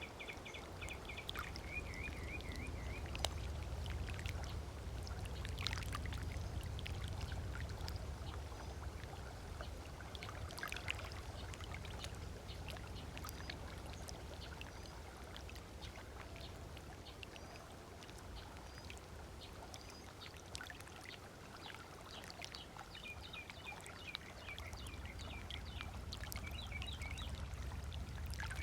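Small waves lapping and splashing on a sandy lake shore, with a steady low rumble underneath. Birds chirp, with a trill in the first two seconds and again in the last few seconds.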